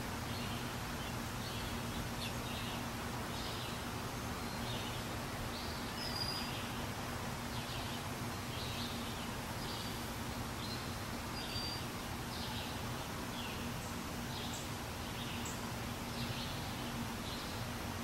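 Outdoor ambience with a bird chirping over and over in short high notes, about one or two a second, over a steady low hum.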